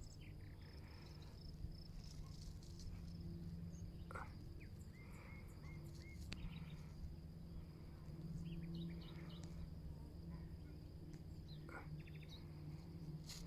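Wild birds calling and singing: short chirps and whistles scattered throughout, over a steady thin high-pitched whine and a low hum.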